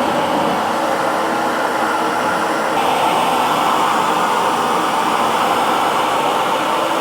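Electric hair dryer running steadily, an even blowing rush with a faint motor hum in it. The tone shifts slightly about three seconds in.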